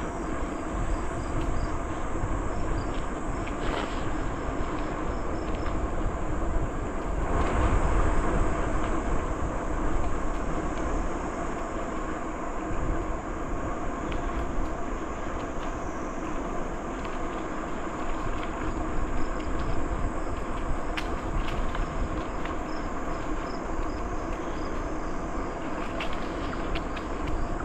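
Steady rolling noise of a bicycle ride: tyres running over the trail surface and wind rumbling on the microphone, swelling for a few seconds about a third of the way in. A few light rattles and clicks come through, and faint high chirping repeats in the background.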